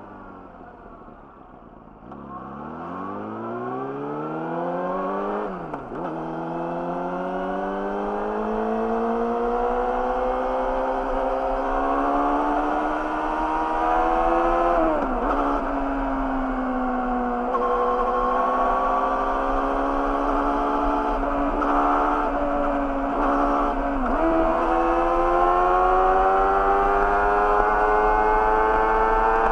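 Yamaha YZF-R6's inline-four engine through an Akrapovic slip-on exhaust, first slowing to a low note, then pulling up through the gears. The rising note is cut by a sudden drop at each upshift, about 6, 15 and 24 seconds in and again at the very end, and grows louder as the bike gathers speed.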